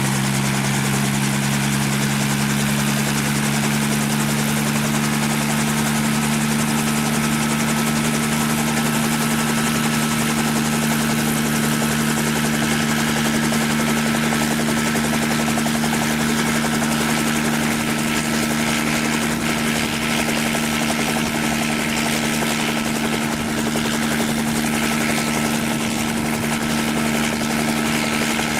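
Aircraft engine running steadily: a loud, even drone of a few low tones that hold one pitch throughout, over a rushing noise.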